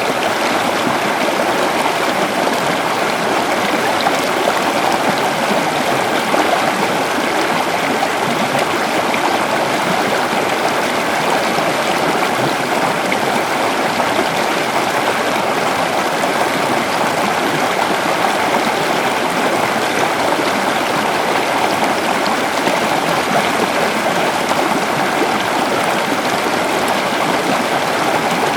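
A shallow river flowing and gurgling over stones in a steady, even rush of water.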